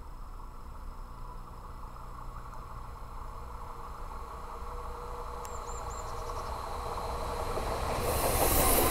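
Eurobahn Stadler FLIRT electric multiple unit approaching, its running sound growing steadily louder, with a rush of high hiss coming in near the end as it draws close.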